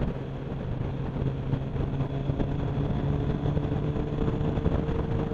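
Motorcycle engine running under way, with road and wind noise; the engine note rises slowly, as under gentle acceleration.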